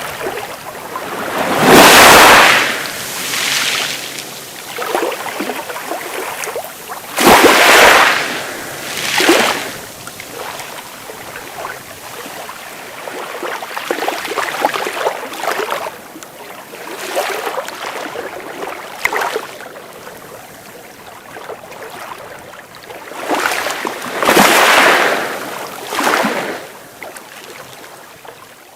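Sea waves breaking and washing up a beach, one after another. The loudest surges come about two seconds in, around eight seconds and near the end, with quieter wash in between.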